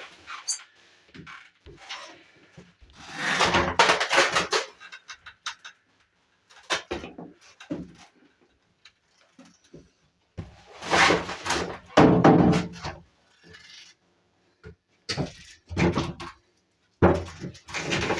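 Irregular knocks, thunks and scraping of objects being handled and moved, in bursts of up to about a second and a half with quiet gaps between.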